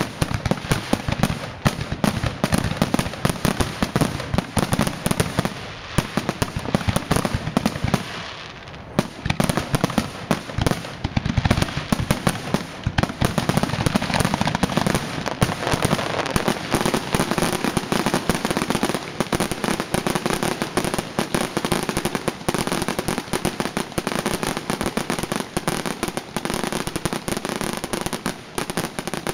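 Fireworks display going off in a dense, rapid barrage of bangs and crackling, with a short lull about eight seconds in before the barrage resumes.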